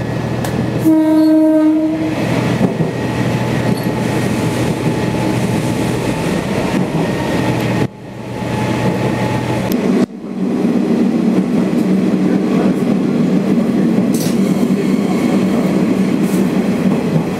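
Sanriku Railway diesel railcar running, heard from on board, with its horn sounding once for about a second near the start. Steady running and rail noise follows, cuts out abruptly twice near the middle, and then returns with a louder steady engine drone.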